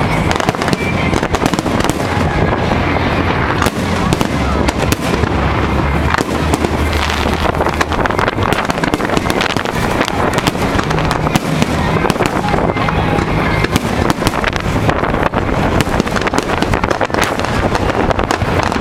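Fireworks display going off: a steady barrage of rapid bangs, pops and crackles, with music playing underneath.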